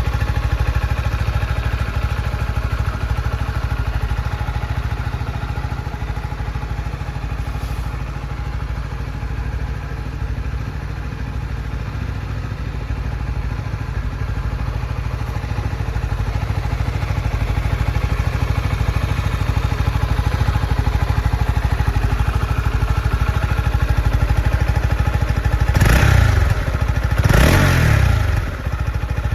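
Honda CB125R's single-cylinder 125 cc engine idling steadily, then revved in two quick throttle blips near the end, each falling back to idle.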